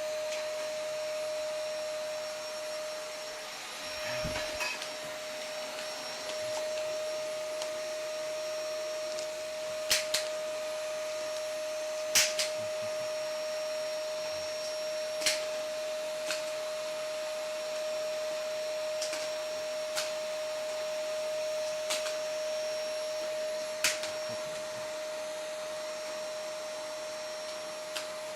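Vacuum cleaner running with a steady whine over its motor noise, broken by several sharp knocks.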